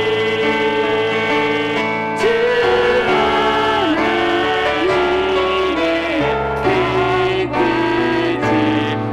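Worship music: a sung praise song with piano accompaniment, the voices holding long notes that glide from one pitch to the next.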